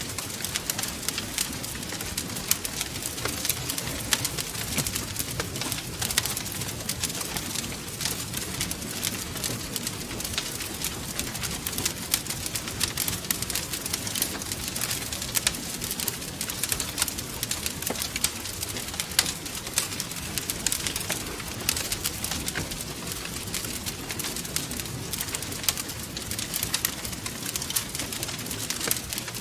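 Wood fire crackling steadily, with frequent sharp irregular pops and snaps over a low rumble from the burning logs.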